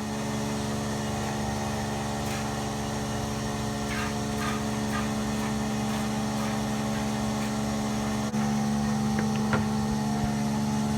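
A motor or engine running steadily with an even hum, a little louder from about eight seconds in, with a few faint clicks.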